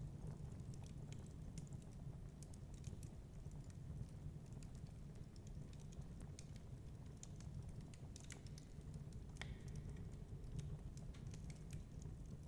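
Wood fire crackling, with irregular light snaps and pops and one sharper snap about nine seconds in, over a steady low rumble of storm wind.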